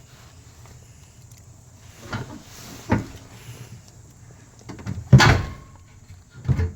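Metal exhaust parts knocking and clunking as the muffler is worked against its hanger: four separate knocks, the loudest about five seconds in with a brief metallic ring.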